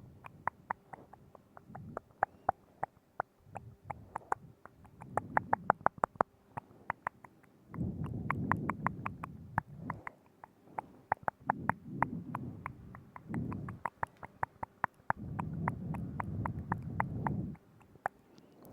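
Close-microphone ASMR mouth sounds: rapid wet clicks and smacks of tongue and lips, many a second. Several lower, muffled stretches of a second or two run among them.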